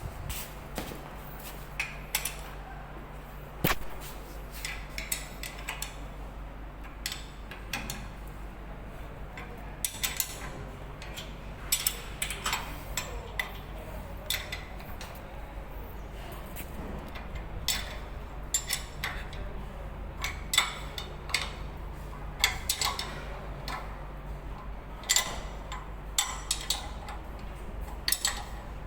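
Irregular metallic clinks and knocks, like tools and metal parts being handled, over a steady low hum.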